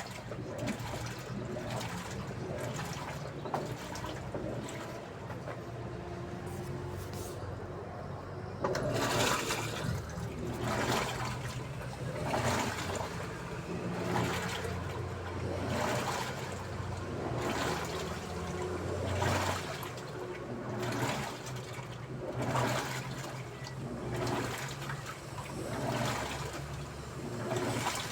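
Daewoo washing machine running with a low motor hum and water noise; from about eight seconds in, water sloshes in the drum in a regular swoosh about every second and a half as the drum agitates back and forth.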